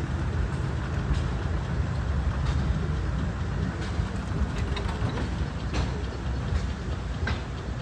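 Steam tractors running: a steady low mechanical rumble, with a few light clicks and knocks scattered through it.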